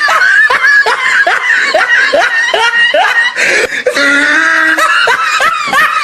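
Laughter sound effect: a person laughing in short repeated "ha" pulses, a bit over two a second, then a longer, drawn-out stretch of laughing.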